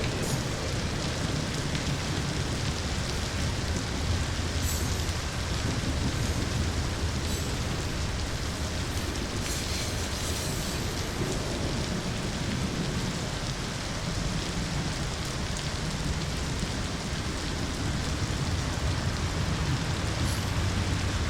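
Steady rain falling, with a low rumble underneath that swells and eases, as of distant thunder.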